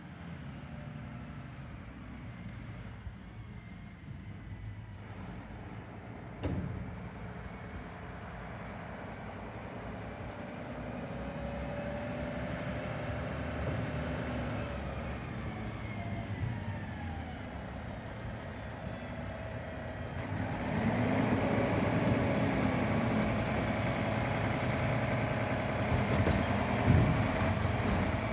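Garbage truck running, with tones that rise and fall over a steady rumble. There is a single knock about six seconds in and a short high hiss later, and the truck gets louder for the last several seconds.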